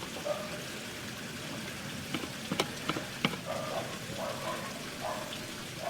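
A few sharp clicks and taps from the small metal parts of a Mamod toy steam traction engine being handled and oiled, clustered about two to three seconds in, over a steady background hiss.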